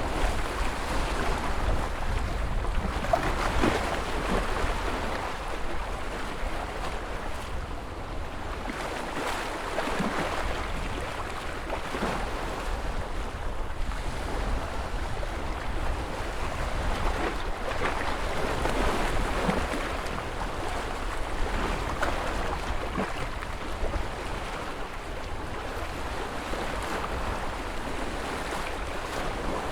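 Ocean surf: waves breaking and washing in as a continuous rush over a low rumble, surging every few seconds.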